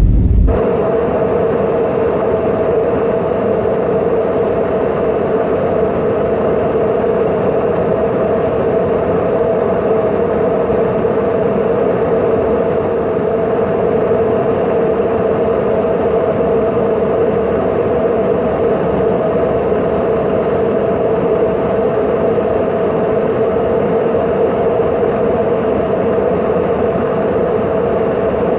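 Steady, unchanging drone of airplane engines: two steady tones over a constant hiss, starting abruptly about half a second in.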